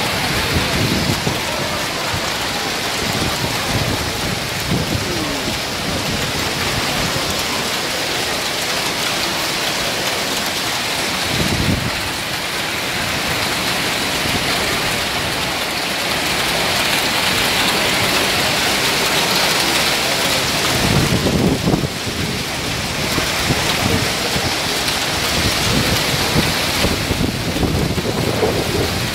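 Hail and heavy rain pelting down hard and steadily on surfaces. Low rumbles come in about eleven seconds in and again around twenty-one seconds in.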